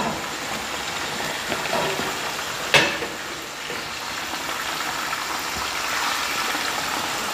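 Chicken pieces frying in a pot of hot oil, a steady sizzle, with one sharp metal clink about three seconds in as the fork lifts pieces out.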